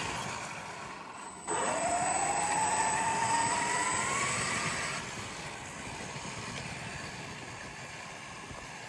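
Traxxas X-Maxx RC truck's brushless electric motor whining as the truck accelerates about a second and a half in. The pitch rises steadily for a few seconds, then the sound slowly fades.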